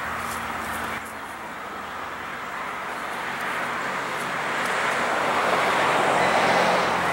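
A passing vehicle approaching: a rushing noise over a low steady hum, growing steadily louder from about a second in.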